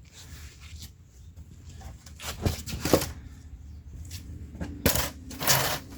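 Sharp metallic clinks and clanks, a few separate knocks and a short scrape, from a small jack and its handle being cranked against a car's frame rail.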